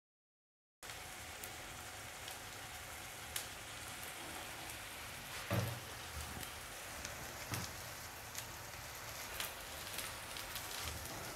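Scotch eggs coated in mashed potato and breadcrumbs frying in shallow oil, a steady sizzle with scattered crackles that starts about a second in. Twice, a couple of seconds apart, the spatula knocks softly against the pan as the eggs are turned.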